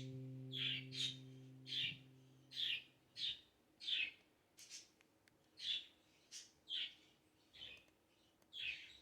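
A bird chirping repeatedly, short high calls about once or twice a second. A held low musical chord fades out over the first three seconds.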